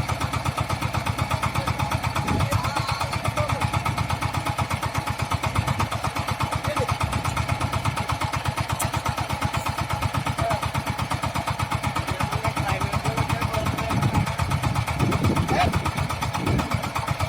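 VST Shakti mini tractor's diesel engine running steadily with a rapid, even chugging beat. Faint voices come in near the end.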